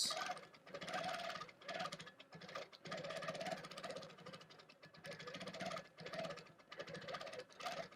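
Longarm quilting machine stitching a free-motion swirl filler, running in short runs of about a second whose hum rises and falls in pitch as the stitching speed changes.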